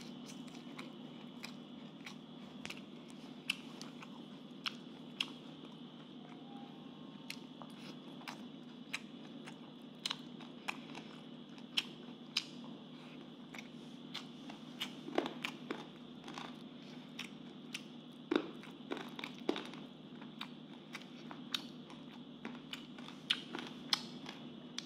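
A person chewing and biting food close to the microphone, with many short wet clicks and crunches, a denser run of louder ones about two-thirds of the way through. A steady hum runs underneath.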